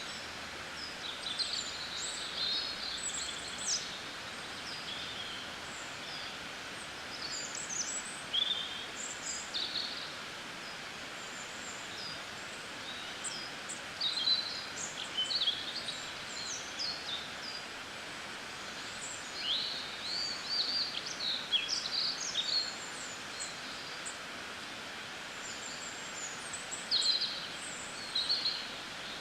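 Wild birds chirping in quick, high bursts of short notes and pitch glides, in several clusters with pauses between, over a steady outdoor background hiss.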